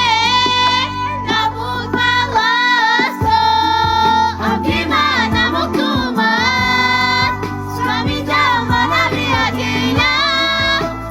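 Romani love song: a high voice sings a bending, ornamented melody with wavering pitch over a backing band with a steady bass. The bass drops out briefly twice, about two and a half seconds in and again about six seconds in.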